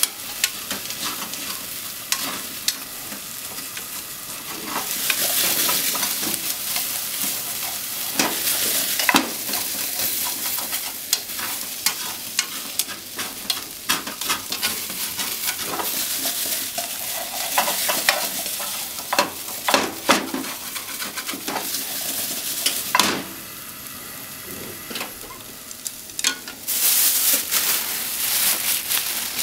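Sliced potatoes and onions sizzling as they fry in a frying pan, stirred with long wooden cooking chopsticks that click and scrape against the pan. The sizzle drops for a few seconds near the end, then comes back louder.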